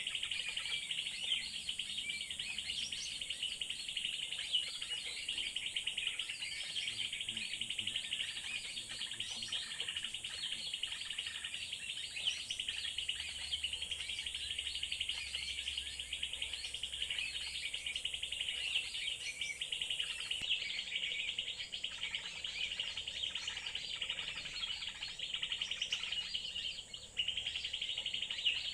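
Small birds chirping and calling over a steady, high insect drone, which drops out briefly near the end.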